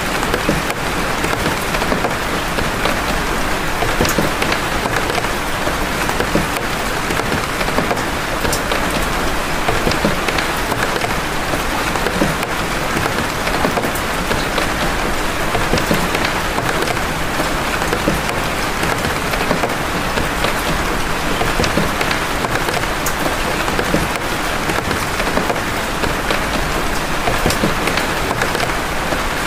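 Steady rain of big drops: a dense, even hiss with many separate drop impacts heard through it.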